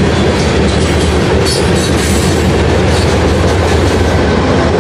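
BNSF freight train's covered hopper and tank cars rolling past close by, a loud, steady rumble and clatter of steel wheels on rail.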